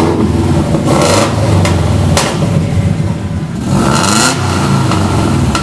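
Subaru WRX's turbocharged flat-four running through a cheap aftermarket cat-back exhaust with its silencer insert fitted, blipped a couple of times, about one second in and again near four seconds.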